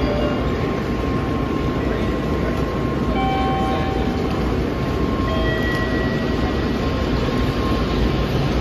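N700S Shinkansen train pulling out of the platform and gathering speed: a steady rumble of the cars rolling past, with a faint steady whine.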